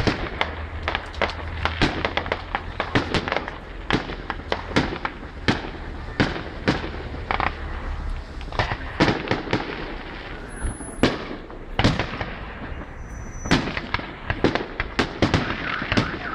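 Fireworks display: a rapid, irregular string of sharp bangs and reports, several a second, with no let-up.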